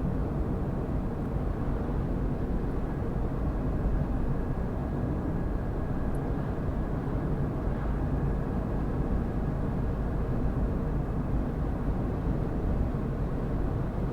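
A car driving at steady speed: continuous engine and tyre noise on the road.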